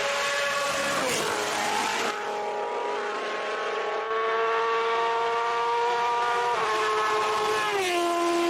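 Race car engine running hard at high revs during a hillclimb run. Its note holds fairly level, then drops sharply in pitch about a second in and twice more near the end.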